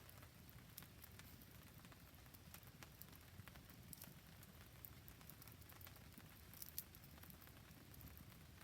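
Faint campfire crackling in the rain: scattered sharp pops and ticks over a steady patter of rain, with a low rumble underneath. The sharpest pop comes about two-thirds of the way through.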